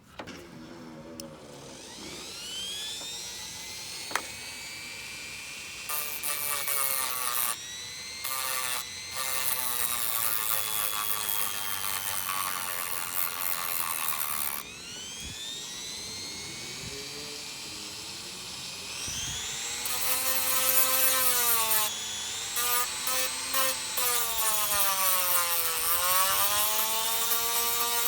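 Handheld electric power tool running under varying load, its motor whine rising and falling in pitch. It cuts out briefly several times, and a sharp click comes about four seconds in. It runs louder over the last third.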